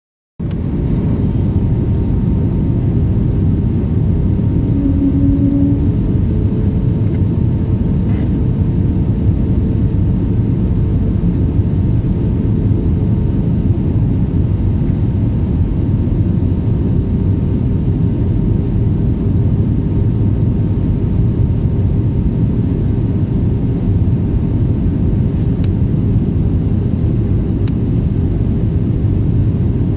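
Airliner in flight on approach, heard from inside the cabin: a steady, loud rumble of engines and airflow that starts suddenly about half a second in.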